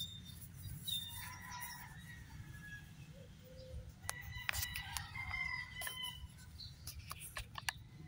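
Faint bird calls: scattered whistled notes and a longer crowing call about four seconds in, over a steady low rumble, with a run of sharp clicks in the second half.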